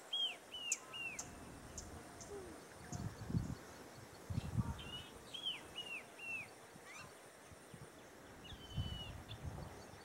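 Wild birds calling: a run of three or four short, down-slurred whistled notes about a second in, repeated about five seconds in, with thin high ticks between them and a different short call near the end. A few low, muffled thumps sound underneath.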